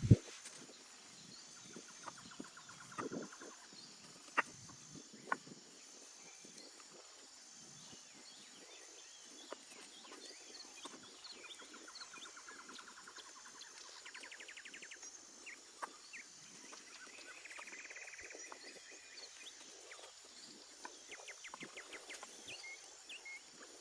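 Small birds chirping and giving rapid trills, with a faint repeated high-pitched note behind them. A few sharp snaps or clicks come at the very start and about four and five seconds in.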